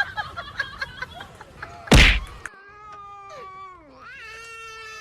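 Scattered clicks and clatter, then a sharp thump about two seconds in. After it comes a cat's long drawn-out meows, two calls that each slide down in pitch.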